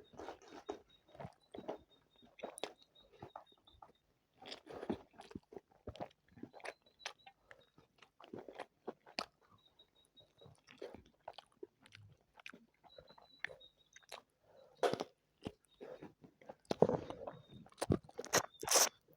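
Close-up eating sounds of someone chewing and biting chicken biryani: irregular wet mouth smacks and crunches, getting louder near the end.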